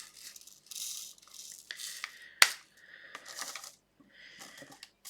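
Small clicks and light rattling of diamond painting work: plastic drills and the applicator pen being handled against the tray and canvas, with one sharper click about two and a half seconds in.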